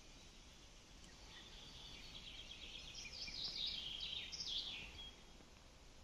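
A songbird sings one fast phrase lasting about three and a half seconds, a run of quick notes that tumble downward and end in a higher flourish, over a faint steady hiss of forest ambience.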